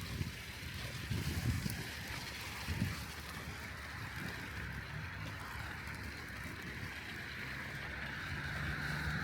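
Wind buffeting the microphone of a bicycle-mounted camera, with the steady hiss and rumble of the bike rolling over a snowy street. Near the end the sound grows louder, as a car comes closer.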